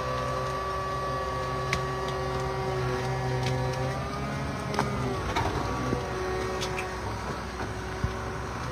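Tractor-powered wood-cutting machine running with a steady mechanical hum. About five seconds in the pitch dips briefly, and a few sharp clicks are heard.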